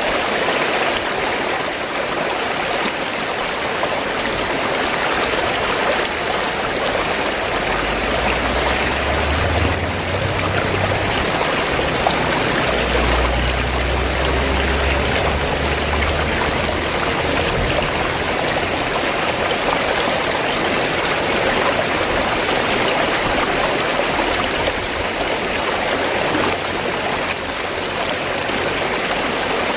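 Fast-flowing stream water rushing and gurgling steadily, with a low rumble underneath for several seconds midway.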